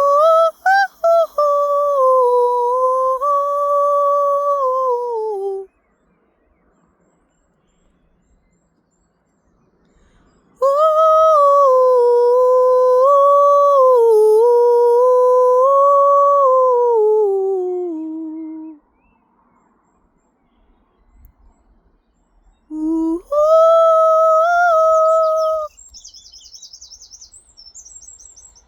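Vocal toning: a single voice holds three long, steady notes that drift slowly up and down in pitch, with pauses of a few seconds between them. Near the end a bird sings a quick, high warbling phrase.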